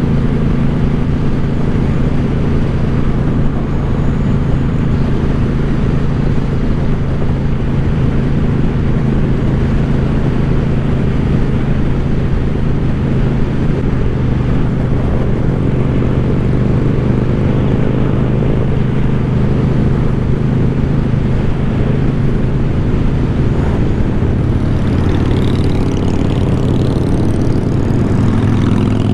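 2014 Suzuki Boulevard C50's V-twin engine with an aftermarket Cobra exhaust running steadily under way, its pitch rising gently about halfway through.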